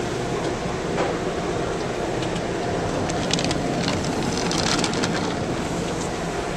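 Automatic car wash heard from inside the car: a steady rumble of machinery and spraying water, with a run of slaps and swishes against the car between about three and five seconds in.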